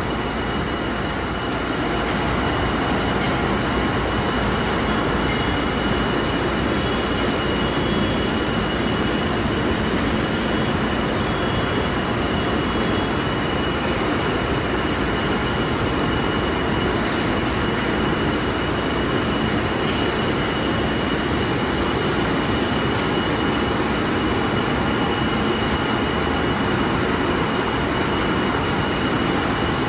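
Sunmyung H860B industrial vacuum cleaner running steadily: a constant rushing motor and airflow noise with a thin high whine over it.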